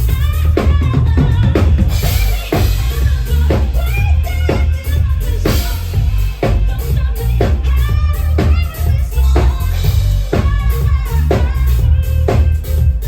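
A live band playing amplified music, with a drum kit keeping a steady beat over heavy bass.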